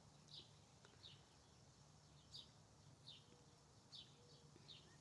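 Faint, short, high chirps of a small bird, repeated about every half second to a second, over near silence.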